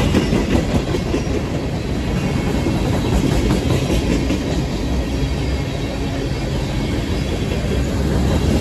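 Freight cars of a CSX manifest train, tank cars and then autoracks, rolling past on steel wheels. The noise of wheels on rail is steady and low-pitched throughout.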